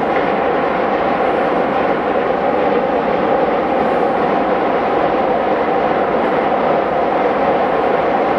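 Passenger train running across a long steel-girder rail bridge: a steady, even rumble of wheels and coaches on the bridge.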